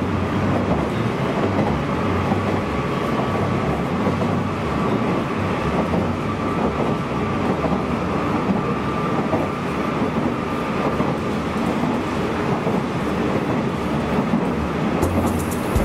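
Steady running noise of a Nishitetsu Tenjin Ōmuta Line limited express electric train at speed, heard inside the carriage: an even rumble of wheels on rail.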